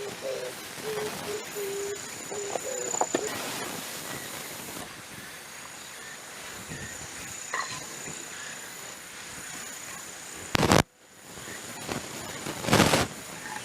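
Light knocks of small wooden frame pieces being handled and set in place, over a steady background hiss, with two louder sharp noises near the end.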